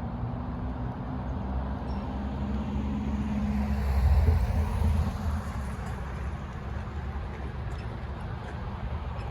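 Union Pacific manifest freight train passing close by, a steady heavy rumble with a low engine drone that swells to its loudest about four seconds in and then eases.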